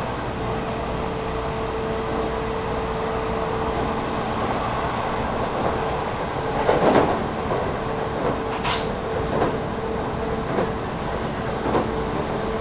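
Interior running sound of a JR 313 series 0 electric train, recorded in its motor car: a steady rumble with a faint steady tone, and wheels knocking over rail joints several times, the loudest about seven seconds in.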